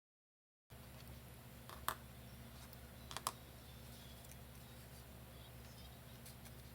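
Silent for a moment, then faint room tone with two sharp light clicks, about two and three seconds in, and a few fainter ticks: the small sounds of paper and craft tools being handled on a work table.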